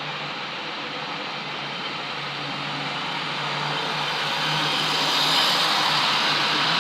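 OO gauge model diesel locomotive running along the track: a steady electric motor hum with wheels rumbling on the rails, growing louder over a couple of seconds from about halfway through as it comes closer.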